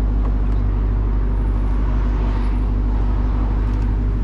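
Lamborghini Urus twin-turbo 4.0-litre V8 idling steadily.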